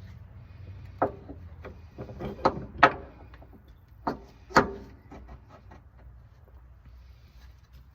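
Knocks and clatter of parts and tools being handled during work under a car, with five louder knocks in the first five seconds, over a low steady hum.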